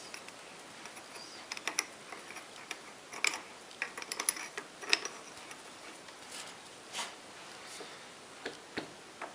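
Sporadic light metal clicks and taps of tools being handled at a mini lathe. The lathe motor is not running.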